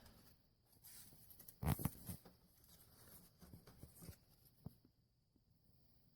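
Faint, scattered knocks and taps. The loudest comes about a second and a half in, with a couple of smaller ones later.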